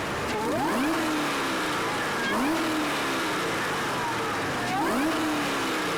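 Supercharged V8 of a Chevrolet Camaro being revved hard three times: each rev climbs quickly and falls away slowly. The supercharger's whine rises and falls with the revs.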